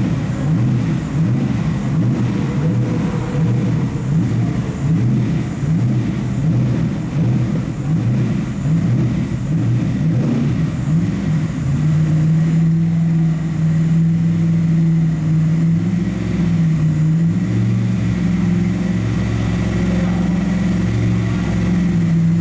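Porsche 997 GT3 RS flat-six engine running during warm-up. It sounds uneven and choppy at first, then from about halfway settles into a steady hum that holds its pitch, shifting slightly about three-quarters of the way through.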